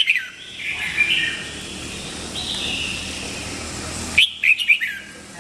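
Red-whiskered bulbul singing: a burst of quick, loud notes at the start and another about four seconds in, with softer warbling between.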